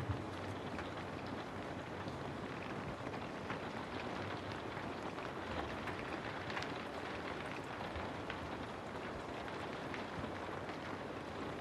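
Steady rain falling, an even hiss of rain with scattered small drop ticks.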